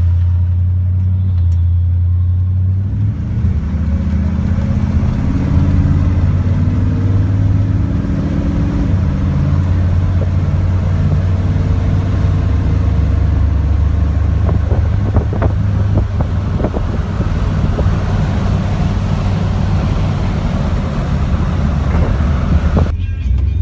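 A 327 four-barrel V8 with Flowmaster dual exhaust, heard from inside the cabin of a 1955 Pontiac Chieftain under way. The engine pulls with rising pitch, drops in pitch about nine seconds in as the three-speed automatic upshifts, then cruises steadily.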